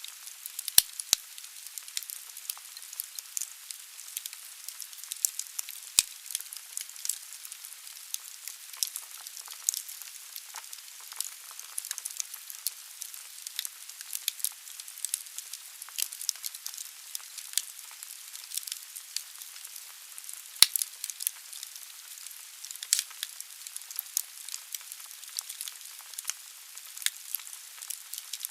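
Wood fire burning in a fireplace: a steady hiss with constant irregular crackling of the logs and a few louder pops.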